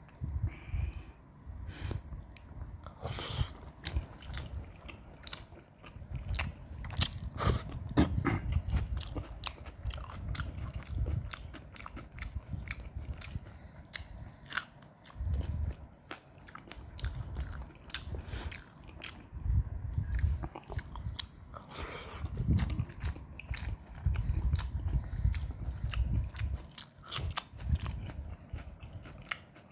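A person chewing and biting a meal of chickpeas and rice with salad, with frequent short crunches and mouth clicks.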